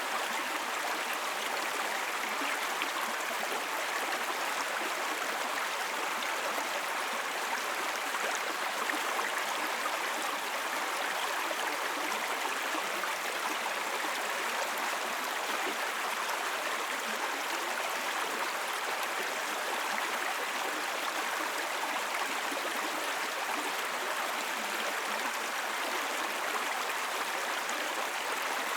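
Small babbling brook flowing over stones, a steady burbling rush of water.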